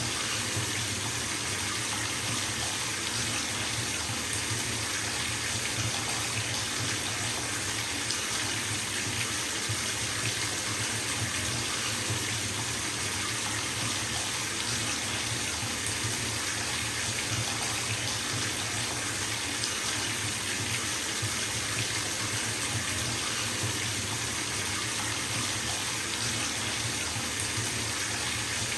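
Bathtub tap running into a filling tub, a steady splashing rush of water.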